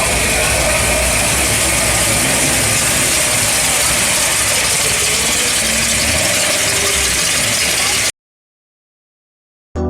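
A car engine idling under a steady wash of outdoor noise. It cuts off abruptly about eight seconds in, leaving silence.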